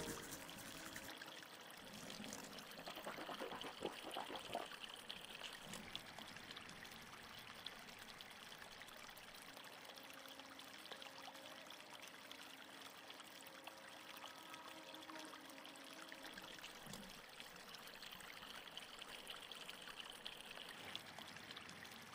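Faint, steady trickle and splash of a small stream running over rocks.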